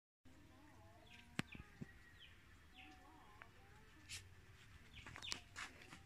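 Faint bird calls: a few short falling chirps and soft wavering notes, with several light sharp clicks scattered through.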